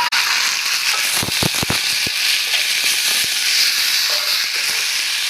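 Chopped tomatoes going into a pan of onions frying in hot oil, setting off a loud sizzle that starts abruptly and then holds steady. A few quick knocks against the pan come about a second in.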